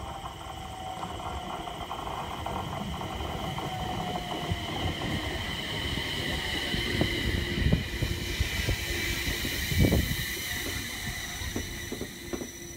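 JR East E721-1000 series electric train running in alongside the platform and slowing almost to a stop: wheels rumbling on the rails with several sharp clunks, the loudest about ten seconds in, over the high whine of its Mitsubishi IGBT VVVF inverter, with a lower tone falling slowly in the first few seconds.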